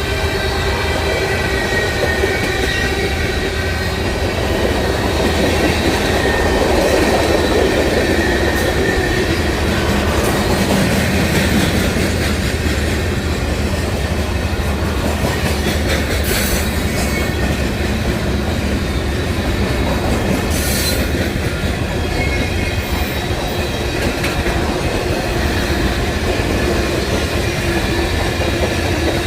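CSX freight train rolling past steadily, its steel wheels clacking over the rails with a thin, high wheel squeal and a few sharp clanks.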